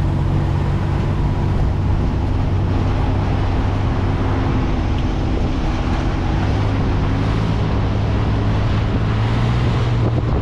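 A four-wheel-drive vehicle driving on a rough mountain track, with a steady engine hum and tyre and road noise.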